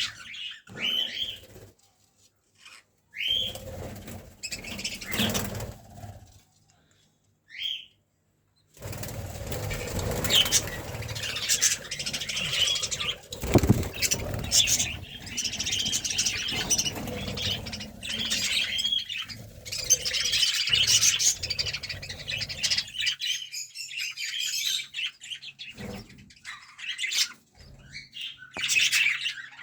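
Small caged pet birds chirping, with a long stretch of wings fluttering and flapping through the middle, about ten seconds long, and scattered short chirps before and after.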